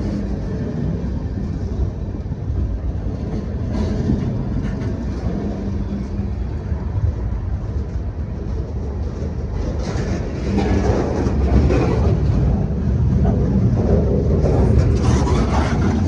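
Freight train rolling slowly past at about walking pace: a steady low rumble of the diesel locomotive and cars, with scattered wheel clicks and clanks. It grows louder from about ten seconds in.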